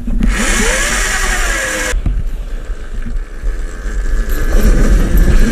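Electric dirt bike's motor whining, rising then falling in pitch over a loud hiss for about two seconds. It then settles to a steadier, quieter whine that grows louder near the end.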